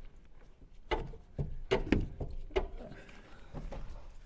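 Several sharp metal knocks and clanks, about five in under two seconds, a few with a short ring, as rusted car chassis metal is worked on by hand.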